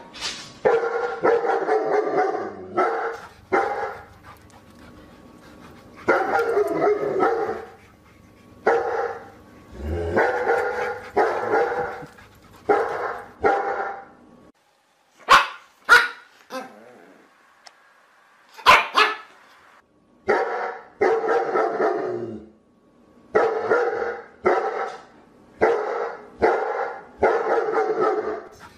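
A dog barking over and over in quick bunches, with a few very short, sharp sounds in the middle.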